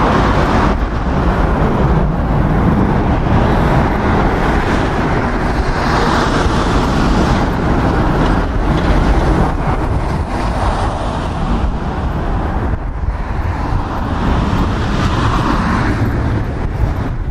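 Jet airliner engines running, a loud, continuous noise that swells and fades, mixed with strong gusting wind buffeting the microphone.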